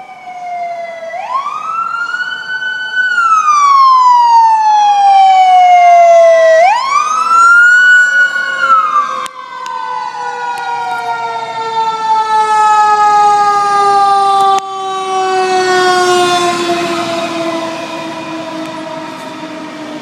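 Fire engine siren winding up twice to a high wail, each time sliding slowly back down in pitch, with a second lower siren tone falling steadily underneath. The sound fades near the end.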